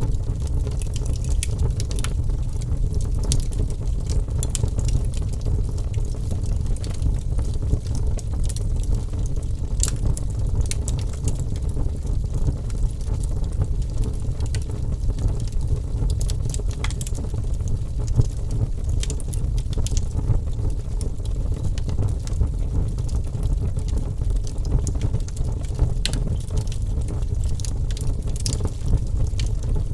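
Wood fire burning with a steady low rumble, dotted with scattered sharp crackles and pops.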